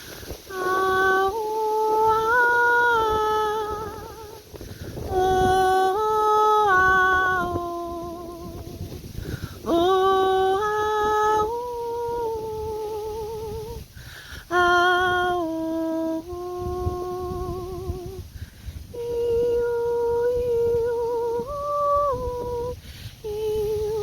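A woman's voice humming wordless held notes in a slow, wandering melody, with vibrato and short breaths between phrases: vocal toning for sound healing.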